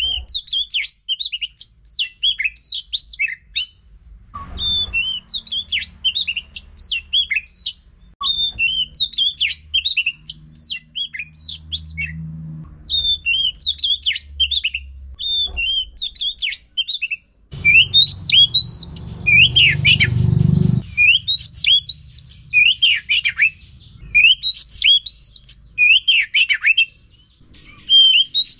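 Oriental magpie-robin (kacer) singing without a break: a fast, varied run of high whistles and chirps, the kind of full song used as a lure to get a silent kacer singing. A low rumble sits under the song for a few seconds past the middle.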